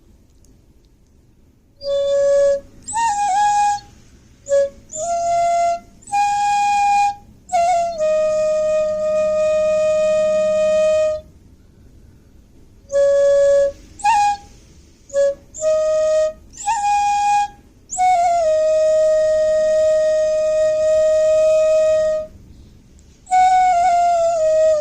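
Background music: a single wind instrument plays a slow solo melody of short phrases and long held notes, with small pitch bends and brief pauses between phrases.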